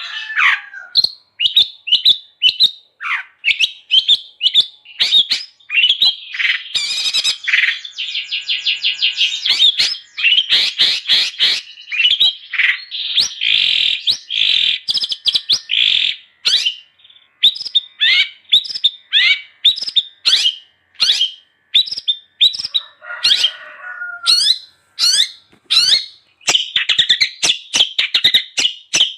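Long-tailed shrike (cendet) singing energetically: a rapid, varied run of short high chirps and fast trills, with harsher, lower scratchy notes near the start and again about 23 seconds in.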